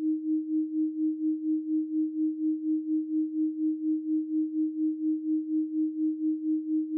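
A 312 Hz pure sine tone held steady, its loudness pulsing evenly about four times a second.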